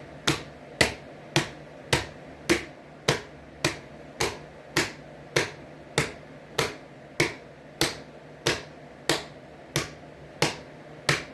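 Hands clapping repeatedly on a warped ceiling fan blade held between them, a steady rhythm of sharp slaps about two a second.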